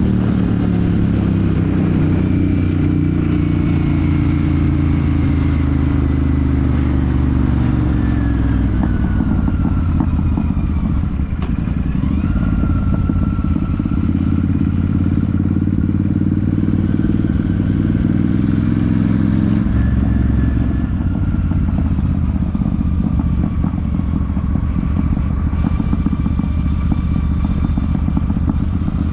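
Royal Enfield Super Meteor 650's 648 cc parallel-twin engine and exhaust under way, its pitch falling over the first eight seconds or so as the bike slows, then running fairly steadily.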